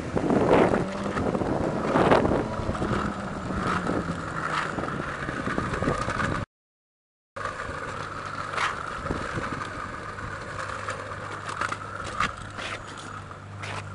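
Ferrari F12berlinetta's V12 engine running at idle in two clips joined by a short cut: in the first it is louder and its pitch slowly falls as it settles, in the second it idles steadily, with scattered clicks over it.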